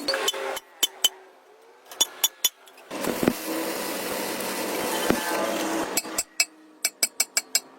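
Sharp metallic knocks and clinks of tools striking metal, scattered through and coming in a quick run of about six near the end, with a steady hum under them in the middle.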